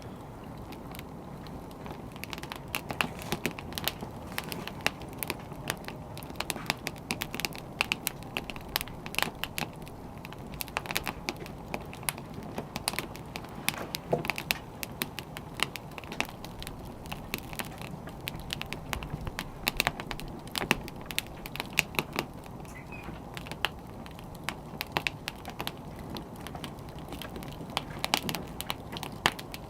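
Wood fire crackling: irregular sharp pops and snaps, often several a second, over a steady low rush of burning logs.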